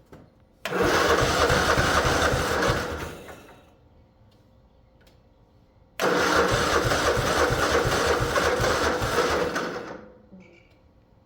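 Craftsman LT1000 riding mower engine being cranked by its electric starter in two tries, each about three to four seconds long with a short pause between. The engine turns over with a fast, even chugging but does not settle into running on its own battery after a trickle charge.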